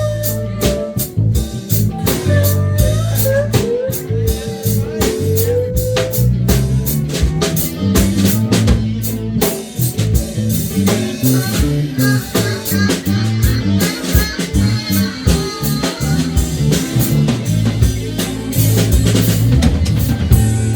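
A band jamming a blues-rock tune: drum kit and bass keep a steady groove while a guitar plays a solo with bent, sliding notes. No singing.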